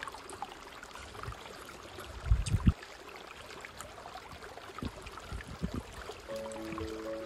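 A few dull low thuds over a steady faint hiss, the loudest pair about two and a half seconds in and softer ones around five seconds. Background music comes in near the end.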